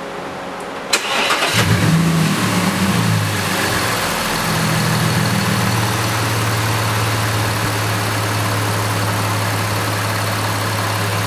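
Audi A6 3.2 V6 engine cranked and started: a click about a second in, then it catches with a brief rev flare and settles into a steady idle. This is the first start after an oil and filter change, as the fresh oil circulates.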